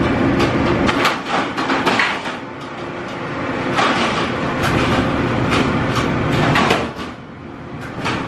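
Clattering and knocking of metal fittings being handled, over a steady rumbling hum, with a quieter stretch near the middle and another near the end.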